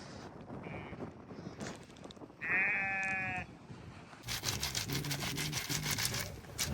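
A sheep or goat bleats once, a wavering call of about a second, some two and a half seconds in. From about four seconds in, a dense rustling hiss follows.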